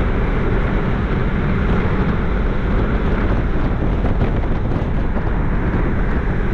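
Porsche 996 Carrera 4S's 3.6-litre flat-six and sport exhaust running at a steady cruise under heavy wind and road noise, heard from inside the moving convertible.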